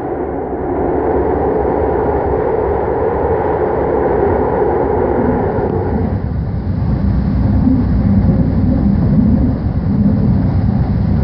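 BART train running at speed, heard from inside the car as a steady, loud rumble and roar of wheels on rail. About six seconds in, the higher part of the roar fades and a deeper rumble takes over.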